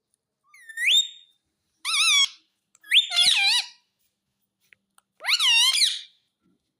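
Pet parrot giving four short, high, whistle-like calls that swoop up and down in pitch, with short pauses between them.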